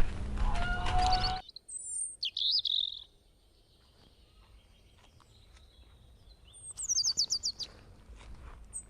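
Small birds chirping: a few high chirps about two seconds in, then a fast run of high, falling chirps near the end, over faint outdoor background. In the first second and a half there is a louder noisy background that cuts off abruptly.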